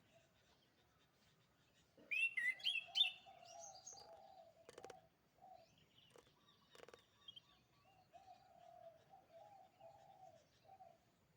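Canary singing a short, loud burst of quick high gliding notes about two seconds in, over another bird's lower wavering call repeated twice. Two sharp clicks come in the middle.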